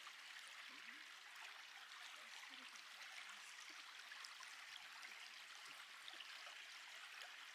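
Faint, steady rush of a stream or small waterfall.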